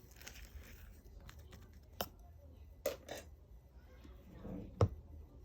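Slime being handled: a few sharp pops and clicks, spaced irregularly, with a softer squish just before the last and loudest pop near the end.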